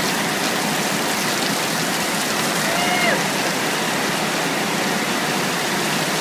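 Heavy rain falling steadily, an even hiss of water. About three seconds in there is one short pitched sound that falls in pitch.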